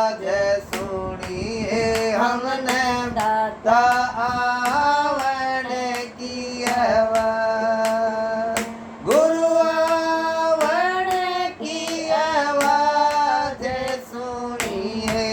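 A devotional bhajan sung solo in long, ornamented held notes over a steady drone, with sharp beats about twice a second keeping time.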